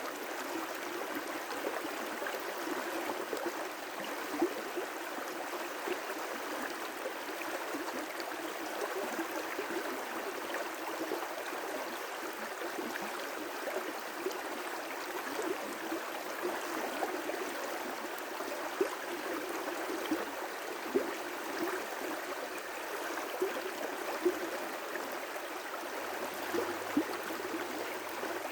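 River rapids: water rushing steadily over rocks, with scattered small splashes and gurgles.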